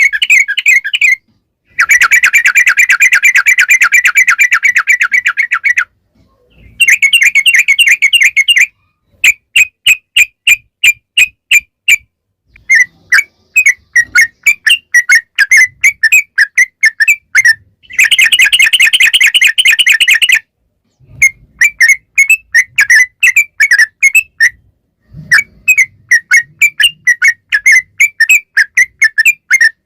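Yellow-vented bulbul (trucukan) song: long, fast rattling trills alternating with runs of separate sharp chirps at about three a second, with short pauses between phrases. It is the long rolling 'ropel' song played as a lure to make other bulbuls answer.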